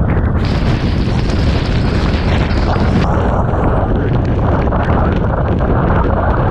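Typhoon eyewall wind battering the microphone with a loud, steady low rumble, and driving rain hissing over it. The hiss is strongest for the first three seconds and then eases.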